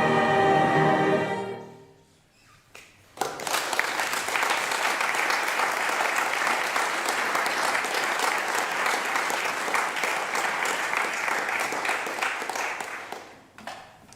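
A gospel choir's final chord dies away, then after a brief pause the audience claps for about ten seconds, the applause fading out near the end.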